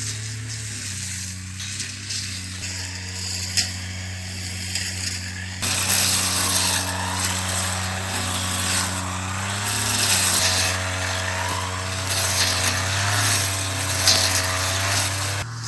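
A motor-driven tool running with a steady hum. From about five and a half seconds in it becomes a loud rasping, cutting sound, its whine dipping in pitch several times as if under load, and it stops abruptly near the end.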